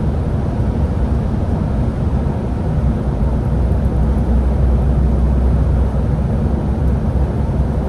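Scania Higer A30 city bus running: a steady low engine and road rumble, a little stronger about halfway through.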